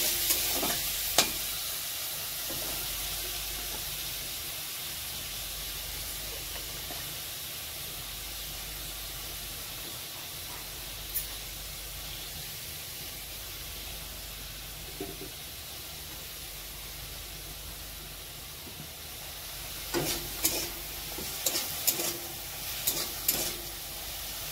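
Sliced bitter gourd and potatoes sizzling in oil in a metal kadai, a steady hiss. A metal spatula scrapes and clicks against the pan about a second in and again several times near the end.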